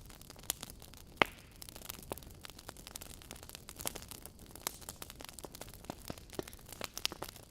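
Wood fire crackling: irregular sharp pops and snaps over a low steady hiss, with one louder pop about a second in.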